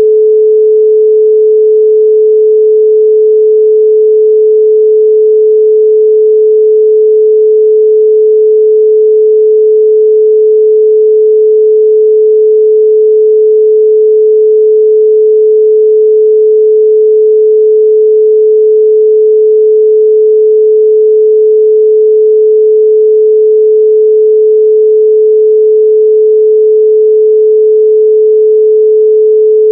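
A continuous 432 Hz pure sine tone, steady and loud, with no change in pitch or level.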